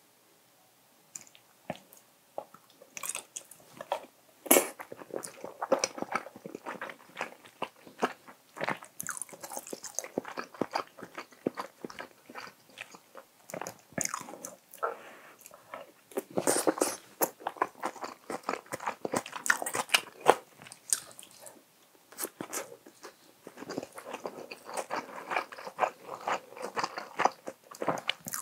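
Close-miked wet chewing, lip smacks and mouth clicks of a person eating spicy stir-fried tofu (dubu duruchigi) by the spoonful, in quick irregular bursts.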